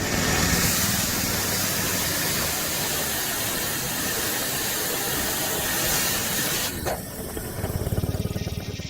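A machine running with a loud, steady hissing noise over a low rumble. The hiss drops away about seven seconds in, leaving a rougher, pulsing low rumble.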